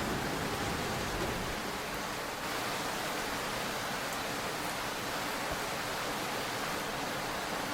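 Steady rushing hiss of subway station ambience as a train's low rumble dies away at the start.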